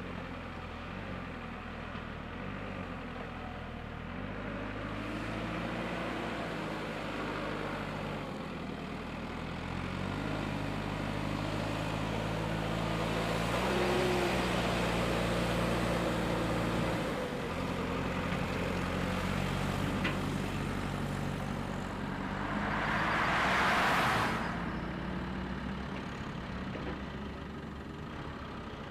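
Vehicle engine running, its pitch stepping up and down as it revs. Later a short loud hiss breaks in.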